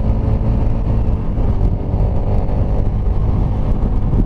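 Kawasaki Rouser RS200's single-cylinder engine running steadily at highway cruising speed, heard from on the bike with a heavy wind rumble on the microphone.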